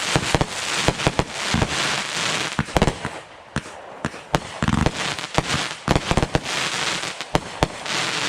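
Fireworks going off: a dense run of sharp bangs and crackling, easing a little about halfway through before a heavy burst of reports.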